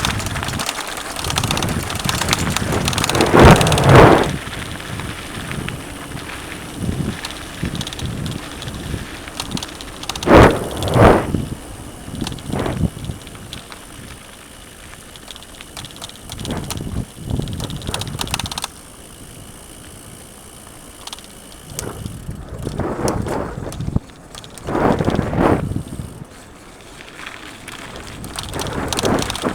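Mountain bike ridden over a rough dirt trail: tyres on the ground and the bike clattering over bumps. Loud jolts come about four seconds in, again around eleven seconds, and in a cluster in the last third.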